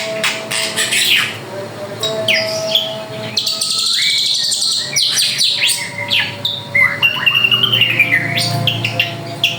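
Drongo singing continuously, a fast, varied run of sharp downward-sweeping notes, clear whistles and a buzzy trill, with hardly a pause.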